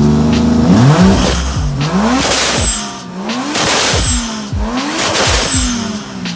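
Turbocharged 1JZ straight-six revved repeatedly by hand at the throttle, its pitch rising and falling with each blip. Each time the throttle snaps shut, a short sharp hiss follows as the newly fitted blow-off valve vents boost.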